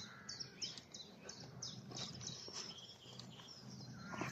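Common nightingale singing faintly: a quick run of short, high, falling notes.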